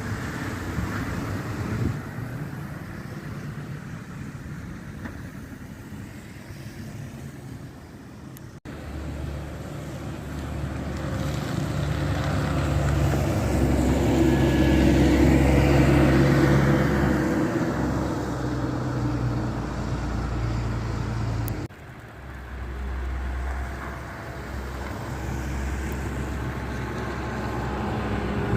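Buses passing on a snowy street: engine noise and tyres on the road, building to its loudest about halfway through as one bus comes close, then easing off. The sound breaks off abruptly twice.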